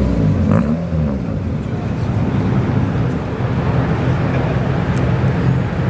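Car engine running at low revs, with a short rev that rises and falls in the first second, then a steady low drone.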